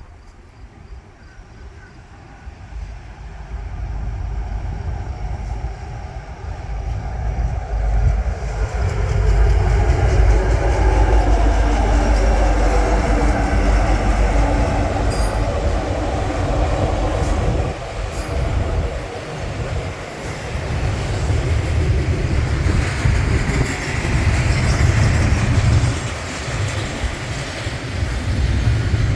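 A short train passing close by, building up over the first several seconds, then a heavy low rumble with wheels clacking over the rail joints and some wheel squeal as the cars roll past.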